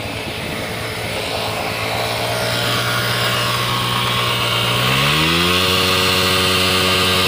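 Motorcycle engine running steadily, then revving up about five seconds in and holding at the higher revs.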